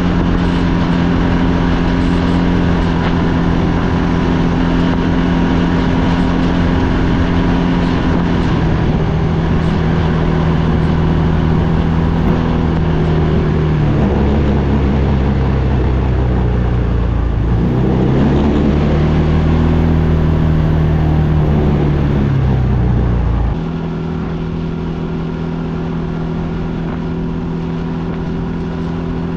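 ATV engine running steadily under throttle. Its pitch dips and climbs again around the middle, then it drops to a lower, quieter note about four-fifths of the way through, as the throttle eases off.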